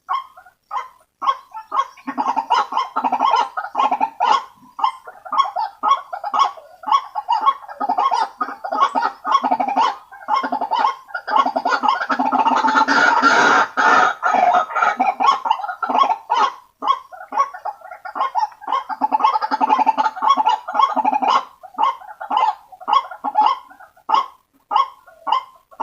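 White-breasted waterhen (ruak-ruak) calling in a fast run of short repeated notes, several a second, which thicken into an unbroken overlapping chorus about halfway through. This is a bird-lure call recording meant to draw waterhens in.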